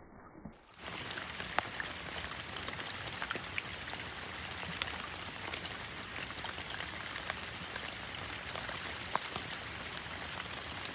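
Steady rain falling on a pond's surface: an even hiss dotted with many separate drop impacts. It sets in sharply about a second in, after a short, quieter, muffled stretch.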